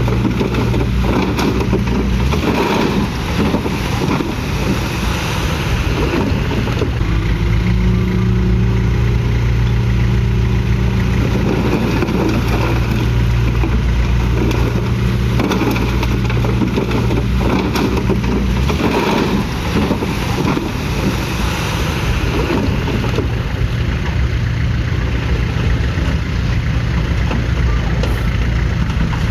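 Komatsu D31PX bulldozer's diesel engine running under load, its pitch shifting between about a quarter and nearly halfway through, with repeated knocks and clanks throughout.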